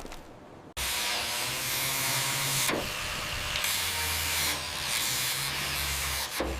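A high-pressure spray hissing steadily, with a low machine hum underneath. It cuts in abruptly under a second in and dips briefly twice.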